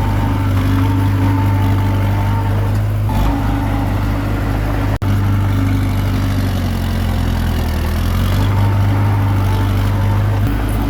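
Komatsu D21P bulldozer's diesel engine running steadily under load. Its pitch sags a little past the middle and climbs back, and the sound cuts out for an instant about five seconds in.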